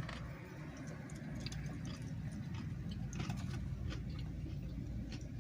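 Paper being handled: a few light ticks and short rustles over a steady low hum.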